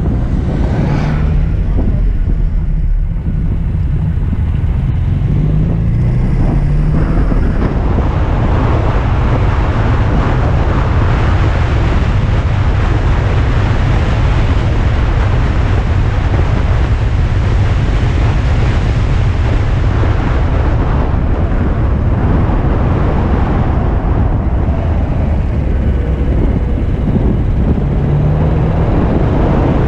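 Alfa Romeo Spider engine running as the car descends a mountain road, under a heavy rumble of wind and road noise. The engine note rises briefly about a second in, again around six seconds in, and once more near the end.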